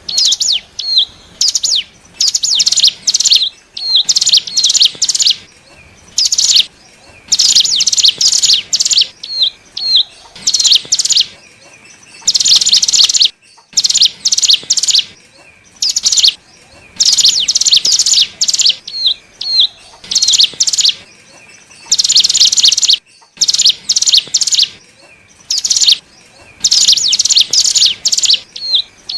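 Ciblek gunung (cigun), a prinia, singing its lure call: repeated quick bursts of rapid, high, trilling notes, each under a second long, broken by short gaps with brief downward-hooked whistles.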